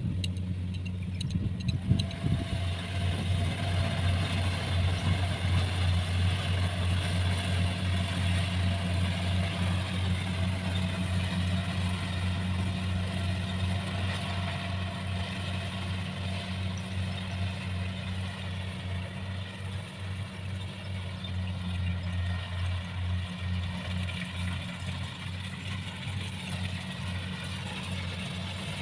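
Engine of rice-harvesting farm machinery running steadily with a deep, even hum, settling to a constant speed about two seconds in.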